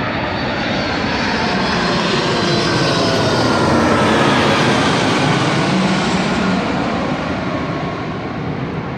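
An airplane flying past, its engine noise swelling to a peak about four seconds in and then fading, with a whine that slides down in pitch as it goes by.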